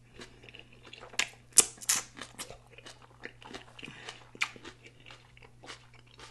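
Close-miked chewing of a mouthful of onion-wrapped burger, with wet mouth smacks and clicks at an uneven pace, loudest in a cluster about one and a half to two seconds in.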